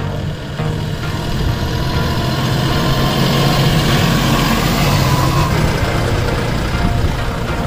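Force Sanman 6000 tractor's three-cylinder diesel engine running steadily, getting a little louder over the first few seconds.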